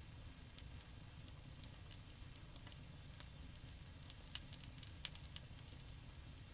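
Campfire crackling: irregular sharp pops and snaps over a low steady rumble, with a cluster of louder pops about four to five seconds in.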